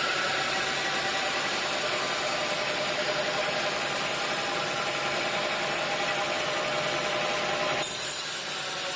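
Sawmill machinery running steadily with an even engine-like hum; about eight seconds in the sound briefly dips and shifts.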